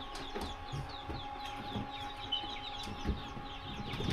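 Many newly hatched chicks peeping: a constant stream of short, high, falling cheeps, over a steady faint hum.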